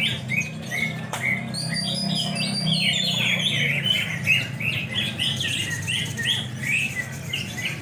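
Greater green leafbirds (cucak hijau) singing: a dense, continuous run of short chirps and whistles, over a steady low hum.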